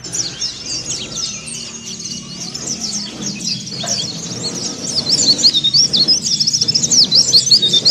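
A pleci (white-eye, Zosterops) singing a fast, unbroken twittering of short, high chirps, the 'ngeriwik' song sung with open beak. It grows louder about halfway through.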